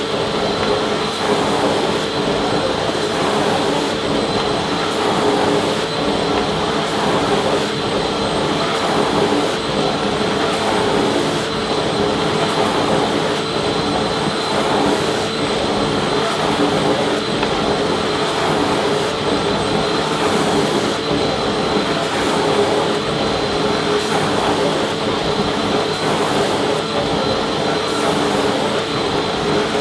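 Vacuum cleaner motor running steadily: a constant whine over an even rush of air.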